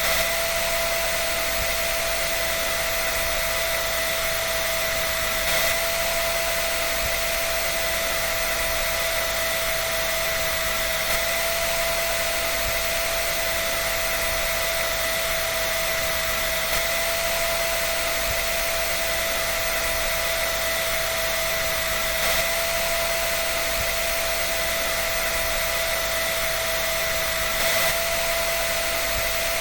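Hair dryer running steadily: an even, airy blowing hiss with a steady motor whine over it, and a slight bump in level about every five and a half seconds.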